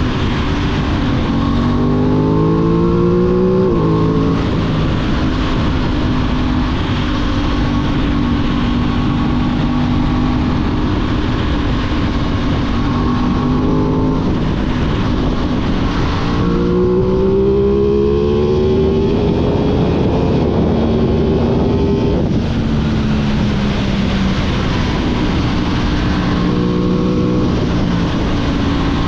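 Aprilia 660 parallel-twin motorcycle engine running, its pitch rising twice under throttle, near the start and about halfway through, then dropping back and holding steady revs.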